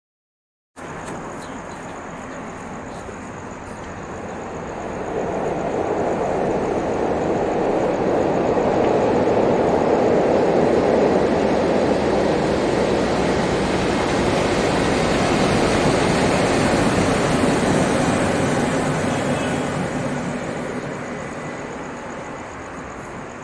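A string of locomotives (a DF11G diesel, two HXD3C electrics and an SS8 electric) rolling across a railway bridge: a steady rumble of wheels on rail that cuts in about a second in, swells as the consist nears, holds loudest through the middle, then fades as it moves away.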